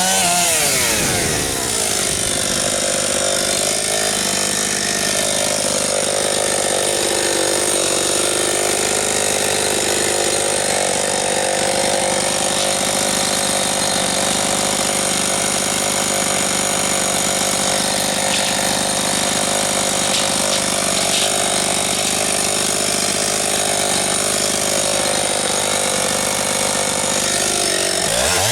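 Husqvarna 272XP two-stroke chainsaw cutting through a large log under load. The engine pitch drops sharply as the chain bites in at the start, holds low and fairly steady through a long cut, and climbs back up as the saw comes free at the very end.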